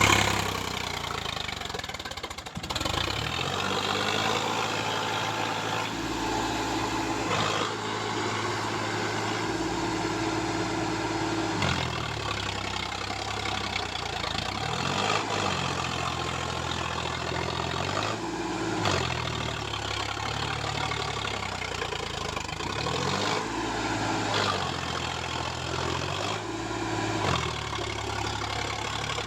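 Sonalika tractor's diesel engine running, revved up and back down several times.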